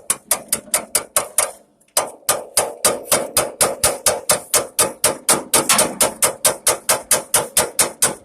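Rapid metal-on-metal tapping, about four to five strikes a second with a brief pause near the start: a pin being driven back into the starter assembly with a tool used in place of a hammer.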